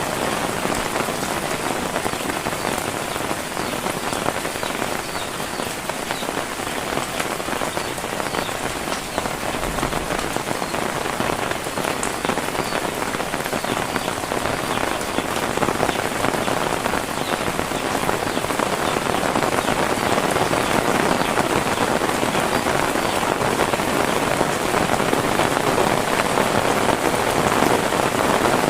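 Heavy rain falling steadily, a dense patter that grows a little louder in the second half.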